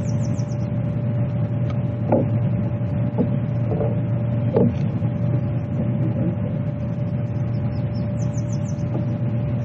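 A steady low motor-like hum with a thin constant tone above it. Short runs of quick high chirps come near the start and again near the end.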